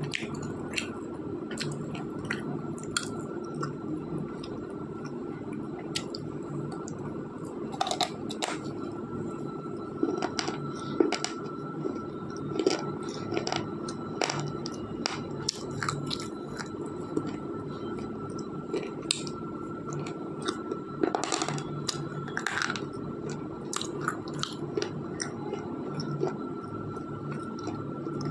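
Close-up chewing of white slate pencil pieces: irregular crisp crunches and crackles with the mouth closed, a few of them louder. A faint steady high-pitched hum sits underneath.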